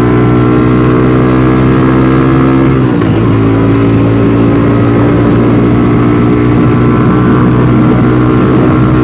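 DF250RTS (Venom X22R) motorcycle's single-cylinder engine running steadily under way. About three seconds in, the engine note dips briefly and then climbs back.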